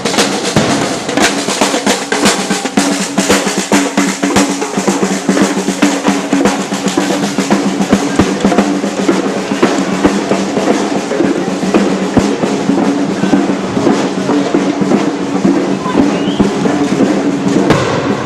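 Drums playing continuously, with snare drum rolls and bass drum beats, over steady held notes from other instruments.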